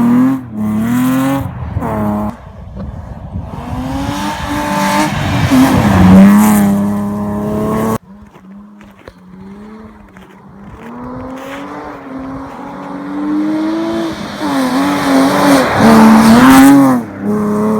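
BMW 325i E36 rally car's straight-six engine revving hard, its pitch climbing and falling repeatedly as it is driven through gears on snow. The sound cuts off abruptly about eight seconds in, then comes back quieter and builds up to loud revving again near the end.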